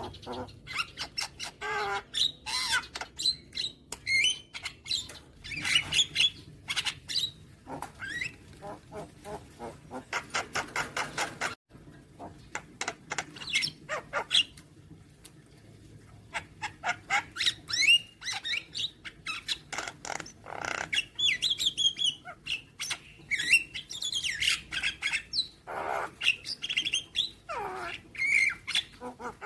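Javan myna (jalak kebo) calling in a continuous, varied run of chattering notes, sweeping whistles and harsh squawks. About ten seconds in comes a fast rattle of clicks.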